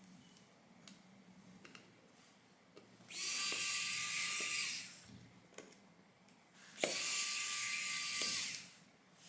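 Small electric precision screwdriver running twice, about a second and a half each time, backing out the heatsink screws inside a MacBook Pro. Faint light clicks of the tool and screws come between the runs.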